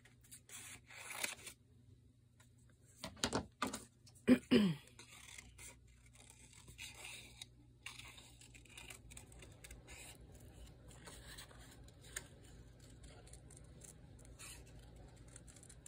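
Paper being handled at a craft desk: scattered rustles, small scrapes and tearing sounds of paper pieces being picked up and placed. A couple of short voiced sounds, like hums, about three to five seconds in.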